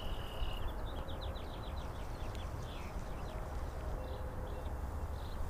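A bird singing: one held note, then a quick trill of about ten short notes, with a few scattered chirps after, over a steady low rumble of wind on the microphone.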